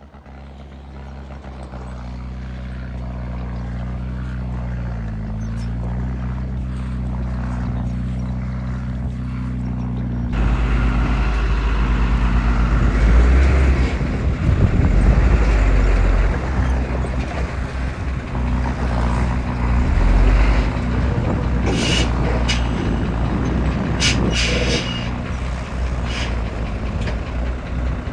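Heavy diesel engine running steadily, rising in level over the first few seconds. About ten seconds in it turns louder and rougher, and a few short, sharp high-pitched sounds come near the end.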